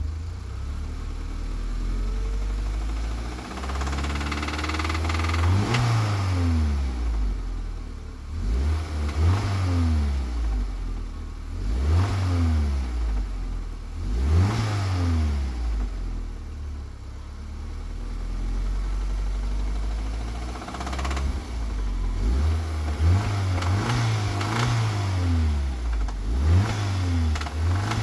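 Audi TT 1.8T BAM turbocharged four-cylinder engine idling and being revved again and again, the pitch rising and falling every few seconds. It has a knocking that the owner is asking for help with.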